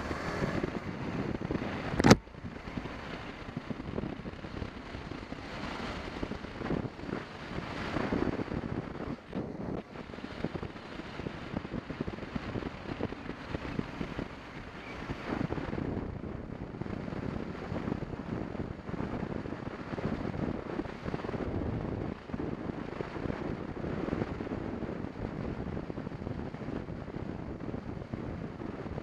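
Wind rushing over the camera microphone on a moving motorcycle, a steady rough noise with road and engine sound underneath. There is one sharp knock about two seconds in.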